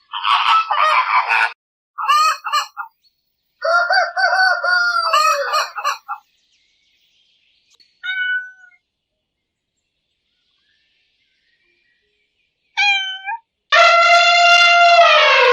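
A series of separate animal calls with pauses between them, several short ones and then a long, loud, pitched call near the end.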